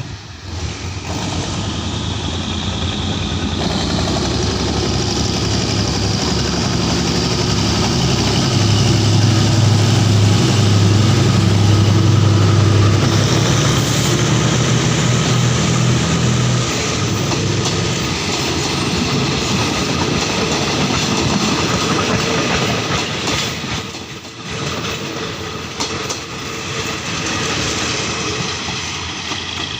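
GEK diesel-electric locomotive's Cummins KTA-38L engine running as the train pulls into the station, its hum loudest as the locomotive passes close by, about ten seconds in, then fading. The coaches rumble past on the rails after it.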